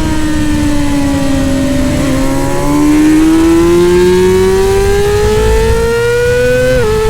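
Race motorcycle engine, its pitch falling for the first couple of seconds as it slows, then climbing steadily for about four seconds as it accelerates hard. Near the end the pitch dips sharply at a gear change and starts to rise again.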